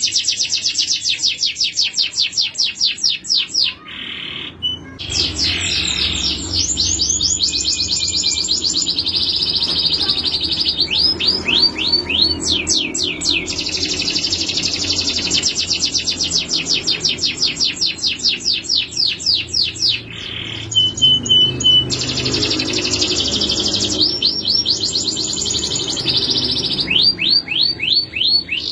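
A male canary singing a long song of fast trills and rolls, many rapid repeated notes in a row. It breaks off briefly twice.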